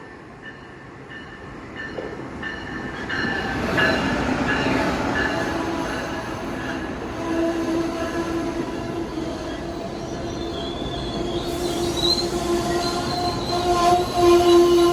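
Amtrak Northeast Regional passenger train behind a Siemens ACS-64 electric locomotive pulling into the station, its running noise building over the first few seconds. Wheels and brakes squeal in steady tones through the rest, loudest near the end.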